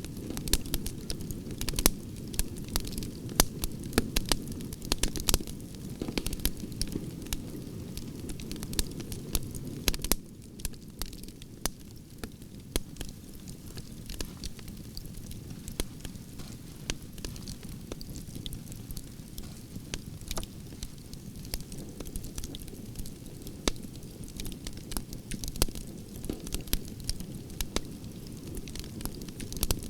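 Wood fire of burning branches crackling, with frequent sharp pops over a steady low rumble of the flames; the pops come a little less often after about ten seconds in.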